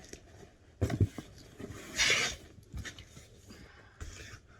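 Cardboard box and packing paper being rustled and knocked: a couple of knocks about a second in, and a louder crinkle about two seconds in.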